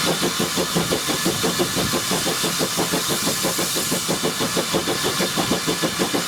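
Heritage railway train engine running with a steady rapid pulse, about seven beats a second, over a constant hiss.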